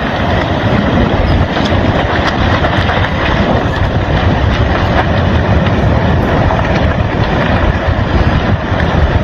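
Loud, steady rushing noise with a heavy low rumble, the sound of a massive landslide sliding down into the sea.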